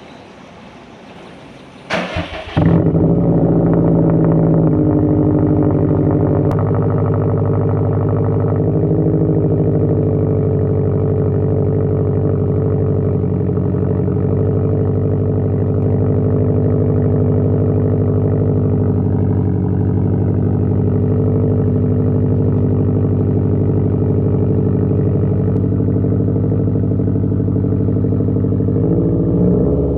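2020 Subaru WRX STI's turbocharged 2.5-litre flat-four, breathing through an AWE Track exhaust, cranks briefly and fires about two seconds in. It then settles into a loud, steady cold-start fast idle, and the idle note shifts slightly near the end.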